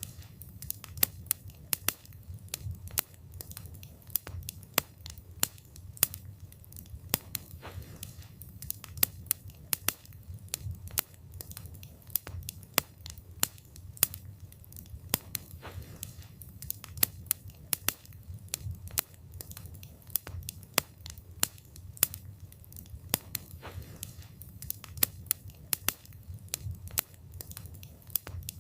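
Wood campfire burning: a steady low rumble of flames under frequent, irregular sharp crackles and pops from the burning wood.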